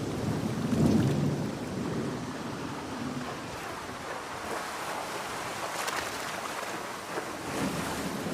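Thunderstorm: steady heavy rain with thunder rumbling low, strongest about a second in and fading away over the next couple of seconds, then a few sharp crackles later on.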